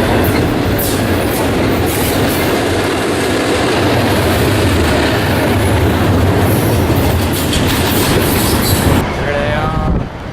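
Train passing close by, its wheels clattering over the rail joints, the noise dropping away suddenly about nine seconds in.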